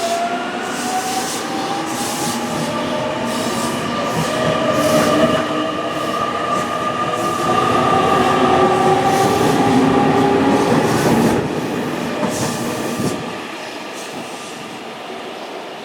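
Electric train pulling away, its traction motors whining as they rise slowly in pitch, with wheels clicking over rail joints; the sound drops away about thirteen seconds in.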